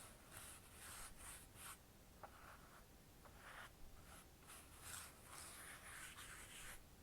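Faint, soft swishing strokes of a makeup brush buffing liquid foundation in small circular movements, one stroke following another every half second to a second.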